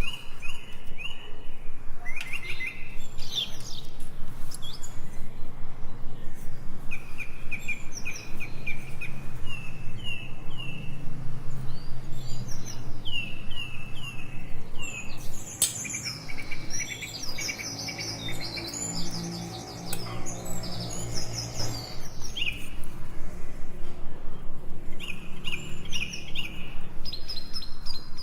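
Small birds chirping in repeated quick series of short notes, over a low steady hum.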